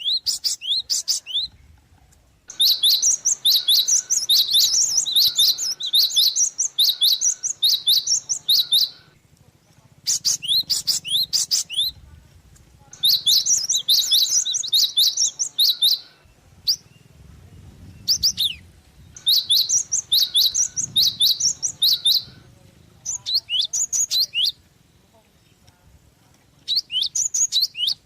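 Gelatik songbird singing in bursts of rapid, high chirps, the longest lasting about six seconds, with short quiet pauses between phrases.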